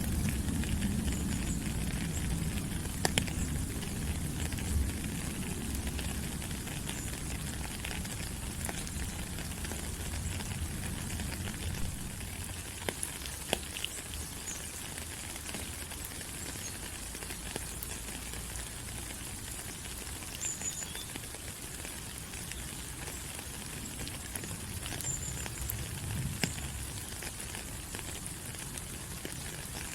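Steady tropical rain falling on rainforest leaves: an even hiss with scattered sharper drop taps. A low rumble under it at the start fades out about twelve seconds in.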